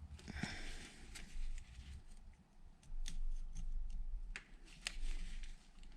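Irregular clicks and scraping of metal hand tools and a battery cable being handled at a workbench.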